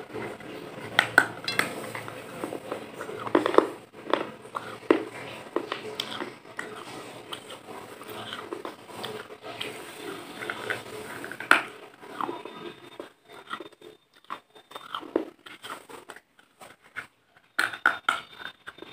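A person biting and chewing crunchy food right at a clip-on microphone: irregular crunches and crackles, with a quieter stretch late on before the crunching picks up again.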